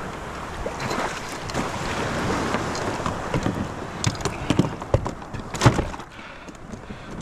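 Steady wind and surf noise with a series of knocks and thumps from kayak gear being handled, the loudest about five and a half seconds in.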